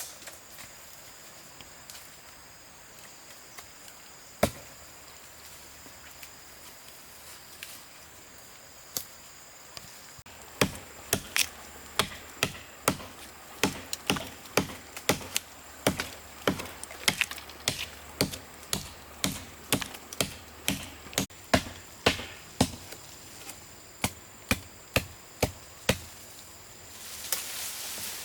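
Wood being chopped with a blade: a few separate strikes, then from about ten seconds in a steady run of chopping blows, roughly two a second.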